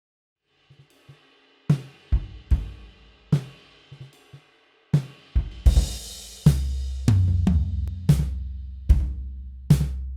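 Sampled acoustic drum kit, EZDrummer 3's Alchemy of Pop Terra kit played with sticks, playing a groove through a delay-and-distortion preset. It starts after a brief silence with sparse kick and snare hits and cymbals, and about six and a half seconds in a heavy sustained low rumble comes in under steady hits.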